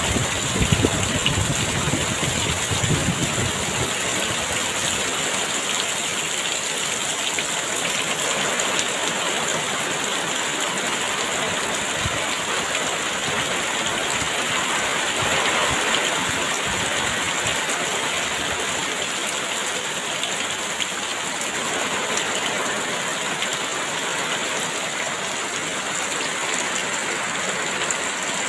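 Very heavy rain pouring steadily in a dense hiss. Low gusts of wind rumble in the first few seconds.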